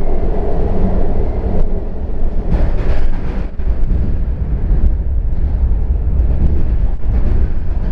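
Subway train in motion heard from inside the car: a steady, loud low rumble of the wheels and running gear, with a few clicks and rattles.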